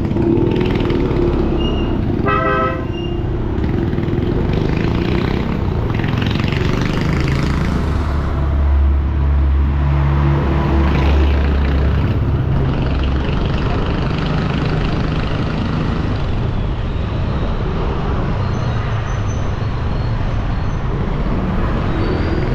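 Motorbike riding through dense city traffic: a steady mix of engine and road noise. A vehicle horn honks in short pulses about two seconds in, and a deeper rumble swells for a few seconds near the middle.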